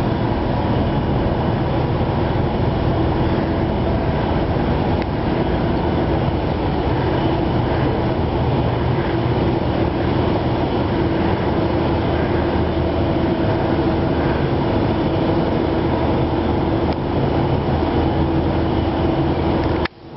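Steady, loud mechanical rumble with a constant low hum, like a large engine or heavy traffic running without change.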